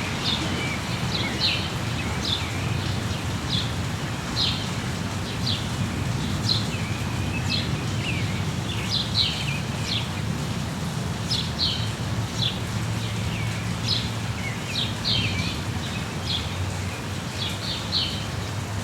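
Rainforest ambience: birds giving many short, high chirps, each a quick downward sweep, at irregular intervals over a steady low rumble and hiss.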